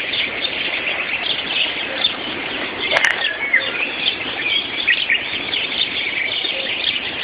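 Morning chorus of many songbirds singing together, a dense overlap of chirps and trills, recorded through a mobile phone. A short click about three seconds in.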